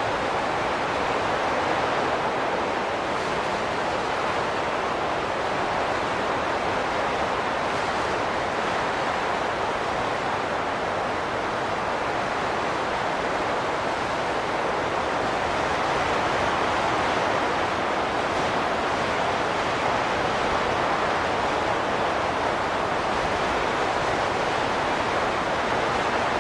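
Wind blowing steadily, an even rushing noise that swells and eases slowly every several seconds.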